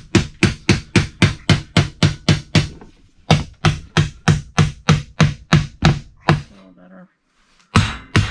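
Hammer driving nails into wooden framing lumber by hand: quick, even blows, about three a second, with a short break about three seconds in, a longer break around seven seconds, and a fresh run of blows near the end.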